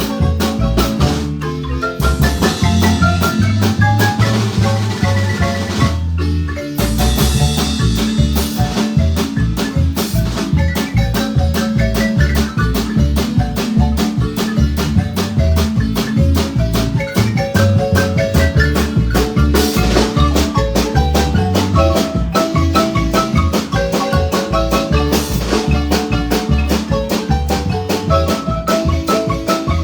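Marimba ensemble playing a fast, lively tune: rapid mallet notes over a bass line and a steady percussion beat.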